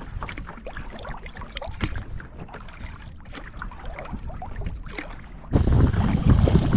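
Splashing and lapping of water around a tandem sea kayak being paddled, with many short splashes. About five and a half seconds in it cuts abruptly to louder wind buffeting the microphone.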